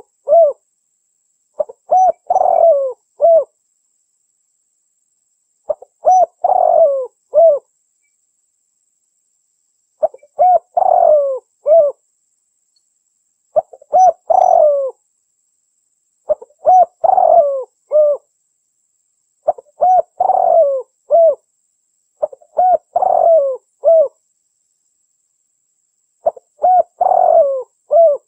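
Female derkuku dove cooing, the kind of call used to lure males. Short phrases of a few rolling coos repeat about every three seconds.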